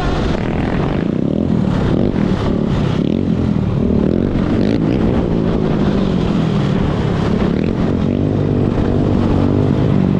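Dirt bike engines running, revving up and down with their pitch rising and falling.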